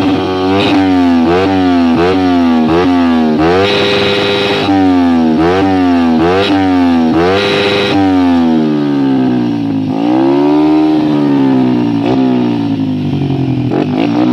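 Old Yamaha Jupiter MX single-cylinder four-stroke engine through a Proliner aftermarket exhaust, revved in quick repeated throttle blips, each a sharp rise in pitch that falls back. A couple of blips are held a moment higher. A slower, longer rev rises and falls past the middle before the quick blips return near the end.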